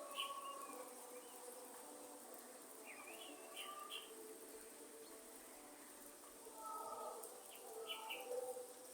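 Faint rainforest ambience: a steady insect hum and drone, with short bird chirps near the start, a few seconds in and near the end.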